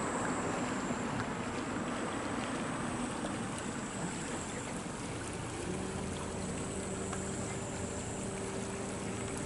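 Steady rush of water with a low, even engine hum that sets in about halfway through.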